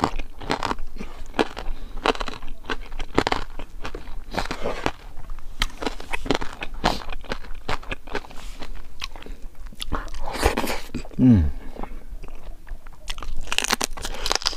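Close-miked chewing and crunching of crispy fried pork, a steady run of irregular crisp crunches. About eleven seconds in, the eater gives a short falling hum.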